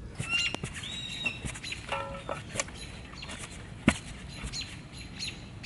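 Birds chirping, with scattered light ticks and one sharp knock about four seconds in.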